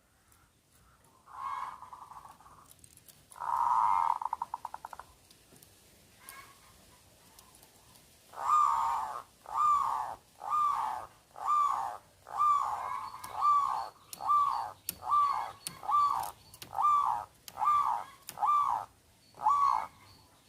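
Zebra dove (perkutut) singing: a short coo and a rolling, purring trill, then after a pause a run of about a dozen clipped coos, roughly one a second.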